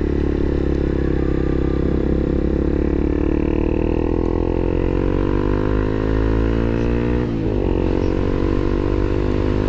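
Motorcycle engine pulling under acceleration, its pitch rising steadily, then dropping abruptly on an upshift about seven seconds in before rising again.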